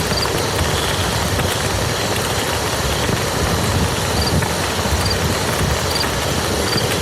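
Steady heavy rain falling onto a muddy field, a dense, even patter of drops hitting wet mud.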